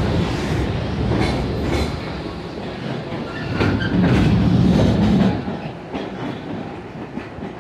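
Long Island Rail Road electric multiple-unit train rolling past the platform, a heavy rumble with wheels clicking over rail joints now and then. It swells for about a second around the middle, then fades as the train pulls away.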